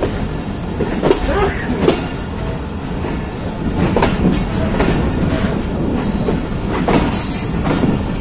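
Passenger train coaches rolling slowly into a station, heard from the open doorway: a steady low rumble with wheels knocking over the track several times. A brief high wheel squeal comes near the end.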